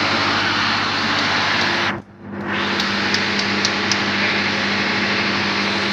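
Loud, steady drone of running diesel machinery in a boat's engine room, with a low hum. The drone briefly cuts out about two seconds in, then comes back with a few faint, light clicks.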